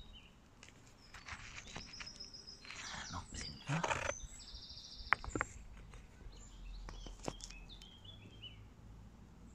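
Small songbirds chirping, with a fast trill of high notes twice, about two and four seconds in. Rustling and a few clicks close to the microphone are loudest about three to four seconds in.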